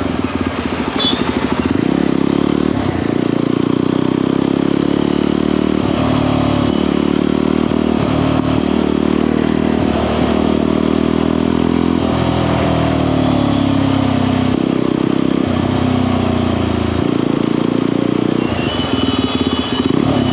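Motorcycle engine and exhaust under way, the pitch rising again and again and dropping back between pulls, as in accelerating up through the gears. A vehicle horn sounds near the end.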